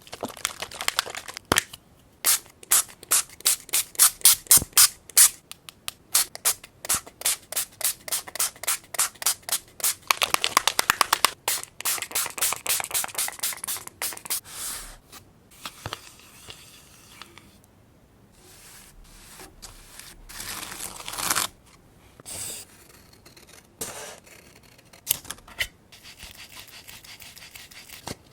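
Rapid scratchy strokes on paper, about three a second, for roughly the first half, followed by softer rustling and a few scrapes of paper being handled.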